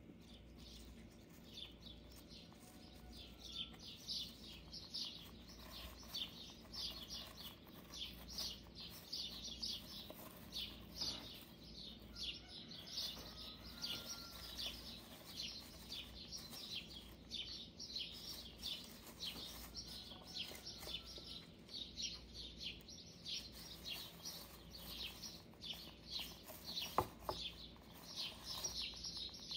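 Small birds chirping in quick, continuous high notes, with one sharp knock near the end.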